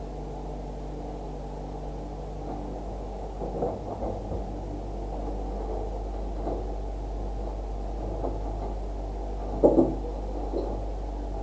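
A steady low electrical hum with a few dull knocks, the loudest pair about ten seconds in.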